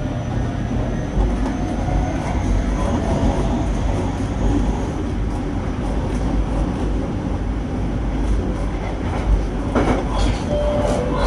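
JR Kyushu 817 series electric train running, heard from inside the car: steady wheel-on-rail rumble with a faint high whine, and a short cluster of rail-joint clicks about ten seconds in.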